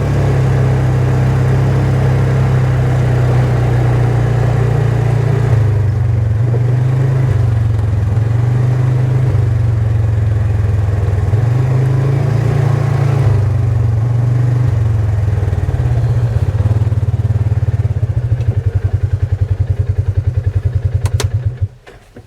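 Small vehicle engine running under way, its speed rising and falling several times, then slowing to distinct low pulses and shutting off a second before the end.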